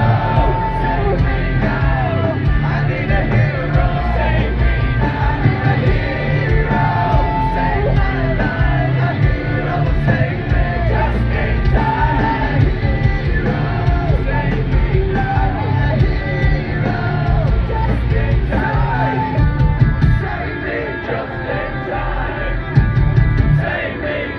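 Rock band playing live with a singer, loud and dense, with a somewhat softer passage about twenty seconds in.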